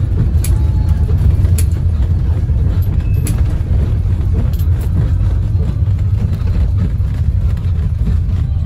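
Steady low rumble of a moving bus, engine and road noise as heard from the passenger cabin, with a few sharp rattles and clicks in the first few seconds.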